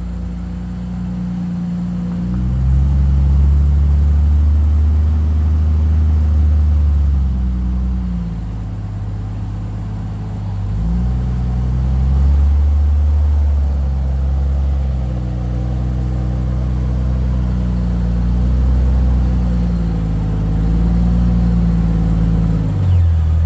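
Engine of a Jeep Cherokee XJ rock crawler working hard as it crawls over boulders. The revs rise and fall several times, climbing under throttle and easing off as the rig inches over the rocks.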